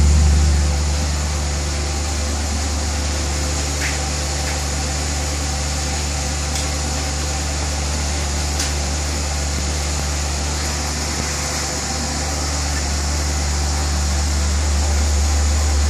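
Maserati coupe idling on its stock exhaust, a steady, real low drone that grows slightly louder near the end.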